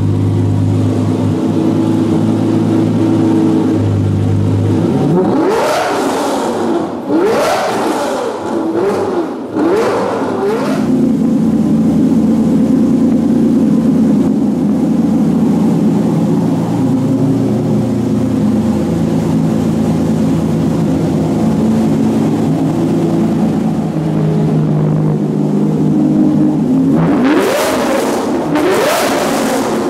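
Lamborghini Murciélago's V12 idling through a very loud aftermarket exhaust, blipped in a string of quick revs that rise and fall back, settling to idle, then revved again in quick blips near the end.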